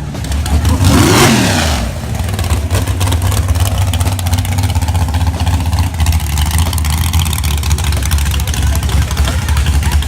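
A car engine revved once about a second in, its pitch rising and falling back, then settling to a steady, lumpy idle.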